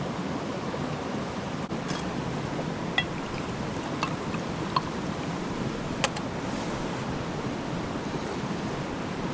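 Campfire burning with a steady rushing noise, and a handful of sharp pops and clicks scattered through the first two thirds.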